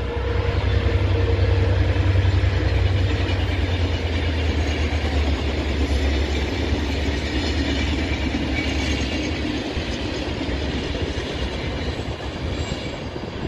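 A diesel-hauled passenger train passing: the locomotive's engine gives a low rumble under the noise of the coaches running over the rails. The sound eases off slightly towards the end.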